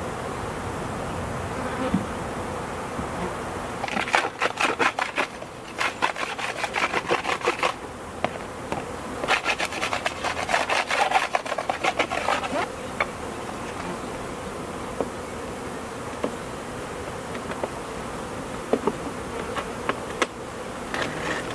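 Honeybees buzzing around open hives in a robbing frenzy, many bees flying at once with a steady hum. Two stretches of rapid crackling rattle cut in, starting about four seconds in and again around nine seconds.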